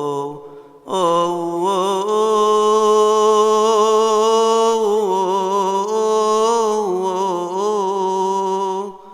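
A solo male voice chanting a Coptic Orthodox hymn in long held notes with a slow wavering pitch. It pauses for a breath just after the start and again near the end.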